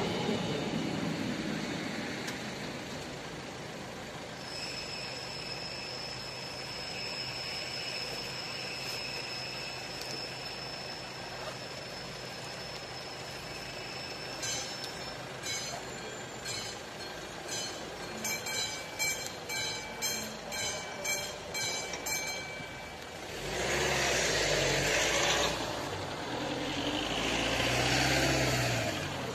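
A train's running sound fades away at the start. Midway, a level crossing's classic warning bell strikes in a rapid series for about eight seconds, after a steady high tone. Near the end, two road vehicles pass one after the other.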